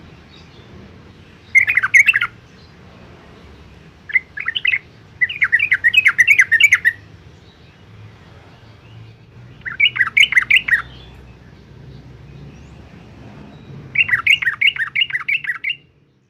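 Yellow-vented bulbul singing: five short phrases of rapid, loud notes with pauses of a second or more between them.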